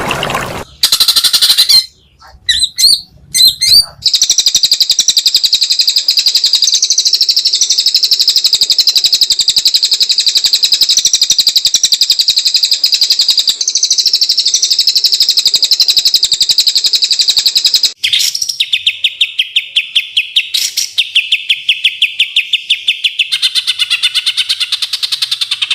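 Songbird singing loudly: a few sharp notes, then a long, rapid, high trill, changing about two-thirds of the way through to a lower, fast, evenly repeated chatter.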